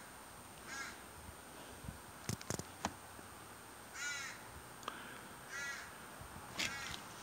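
A crow cawing four times, the calls spaced one to three seconds apart, with a few sharp clicks about two and a half seconds in.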